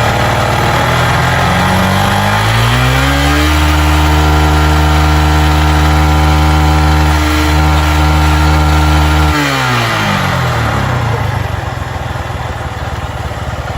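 Motorcycle engine revved from idle, held at steady high revs for about six seconds, then let back down to idle. It is being run up so the battery's charging voltage can be read on a multimeter.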